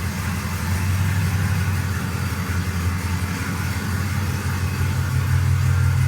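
A vehicle engine running steadily with a low hum. Its sound changes slightly about four and a half seconds in, as if it rose a little in speed.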